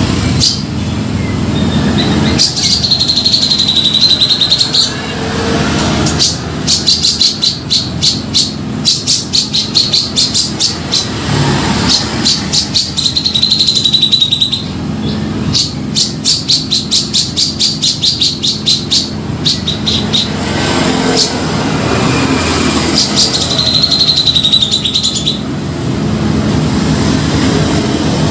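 Grey-cheeked bulbul (cucak jenggot) singing energetically. A wavering held whistle alternates with long runs of sharp repeated notes, about four to five a second. A low rumble runs underneath.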